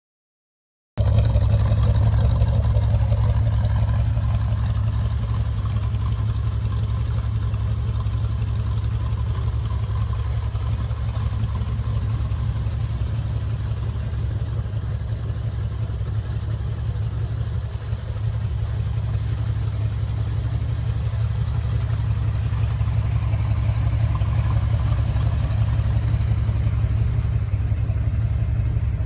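V8 engine of a first-generation (1956–57-style) Chevrolet Corvette running as the car is driven slowly, a steady low exhaust rumble starting about a second in.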